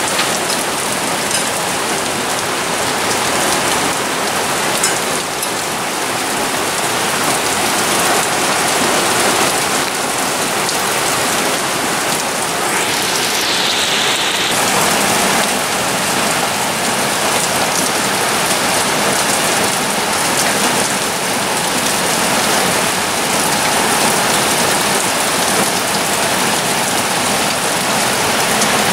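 Heavy rain pouring steadily onto a garden's wooden decking, paving and lawn: a dense, even hiss of countless drops.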